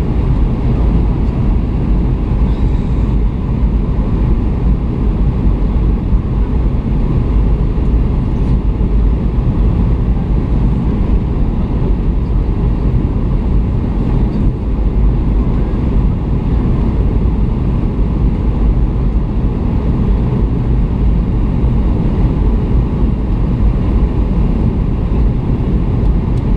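Boeing 757 airliner cabin noise in flight: a steady, loud rumble of engines and rushing air, heaviest in the low end, with no change.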